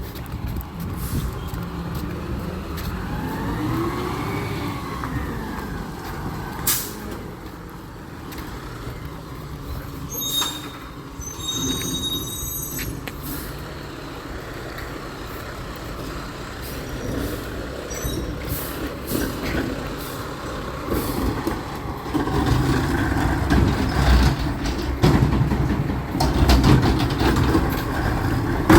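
Recycling truck running, with a slow rise and fall in pitch a few seconds in and short high squeals about a third of the way through; its engine grows louder in the last several seconds.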